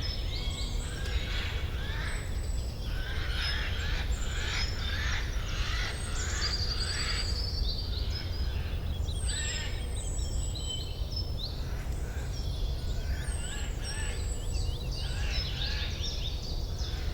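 Forest ambience with several birds singing: a busy overlap of chirps, trills and whistles, over a steady low rumble.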